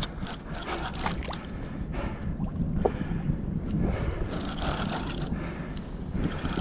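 Water sloshing and splashing against a kayak's hull in surges, with wind buffeting the microphone as a steady low rumble.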